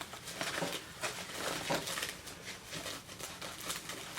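Food packaging crinkling and rustling as it is handled by hand, a run of small irregular crackles.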